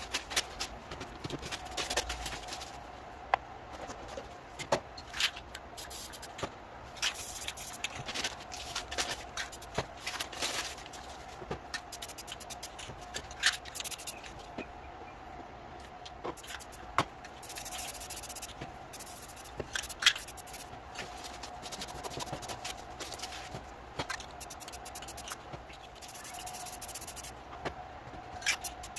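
Paint being brushed and scraped onto a canvas: irregular rubbing strokes and small clicks and taps of the tools, over a faint steady hum.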